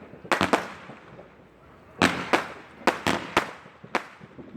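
Fireworks exploding overhead: a quick cluster of sharp bangs just after the start, another bang about two seconds in followed by a run of four more, and a last one near the end, each echoing away.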